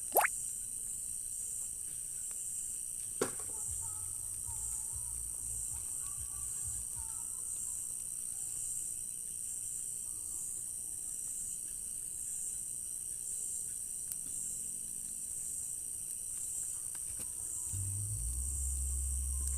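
Night chorus of crickets, a steady high-pitched trill with a slight regular pulse. Two sharp clicks cut through it, one right at the start and one about three seconds in, and a low hum comes in near the end.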